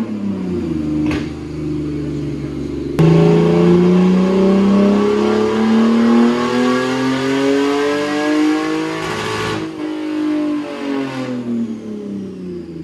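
Car engine on a chassis dynamometer: a couple of quick revs, then a long full-throttle pull with the pitch rising steadily for about six seconds before the throttle is lifted and the revs fall away.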